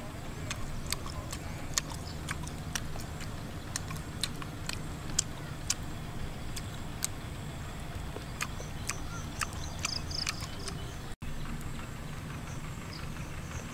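Chewing of crunchy food close to the microphone: irregular sharp crunches, a few each second, over a low steady background hum.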